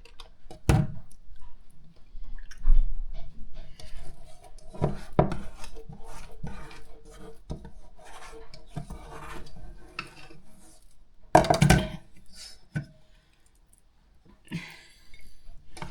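Hands shaping cold minced meat into cutlets: soft wet squishing and patting, with a few louder knocks, about a second in, around five seconds and near twelve seconds.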